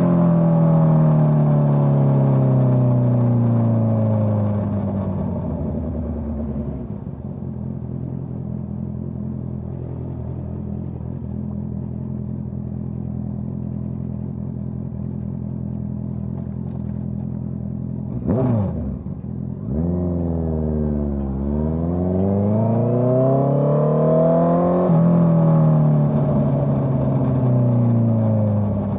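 Honda CBR650R inline-four running through a Dominator GP full-system exhaust. The revs fall away, the engine holds a steady low note for about ten seconds, and a short sharp blip follows. The revs then climb and drop off again near the end.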